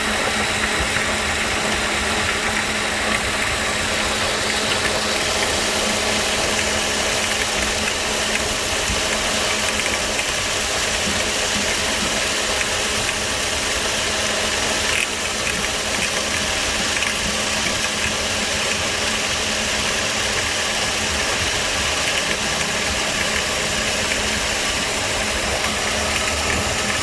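Car engine idling steadily with a noisy air-conditioning compressor running, a constant mechanical hum with a steady low tone.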